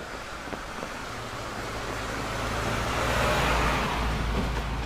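A motor vehicle driving past on a rain-wet road, its tyre hiss and engine hum growing louder to a peak about three and a half seconds in, then easing.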